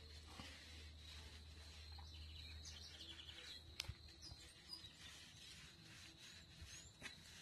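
Quiet outdoor ambience with faint bird chirps, including a quick chattering series about two and a half seconds in, and one sharp click near the middle.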